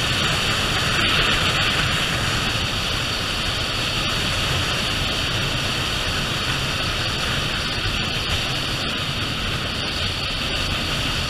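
Motorcycle riding along at speed, with a steady rush of wind noise over the low rumble of the bike.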